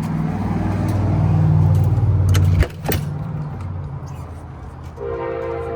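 A nearby engine's low, steady hum swells, then drops suddenly with two sharp clicks about two and a half seconds in. Near the end a steady horn-like tone starts.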